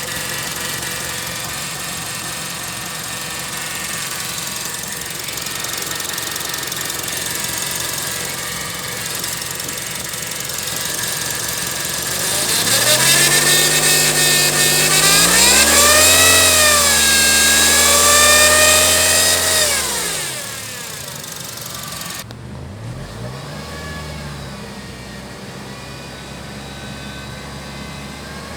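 Honda CR-V engine running steadily, then revved for several seconds about halfway through, its pitch climbing, wavering and falling back with a rushing hiss over it. It settles to a lower running sound, with one short blip of revs a few seconds later.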